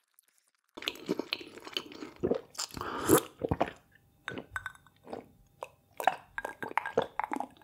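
Close-miked chewing of food, with wet mouth clicks and crunchy bites in quick succession, starting just under a second in.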